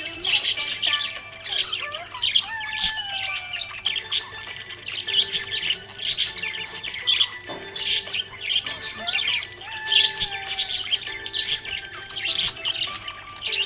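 Budgerigar chirping and chattering, a dense run of quick, high chirps and warbles that goes on without a break.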